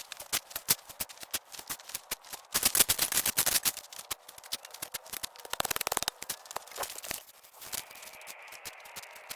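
Shovel scraping and chopping into dry, rocky trail dirt: a string of sharp scrapes and crunches, busiest about three seconds in.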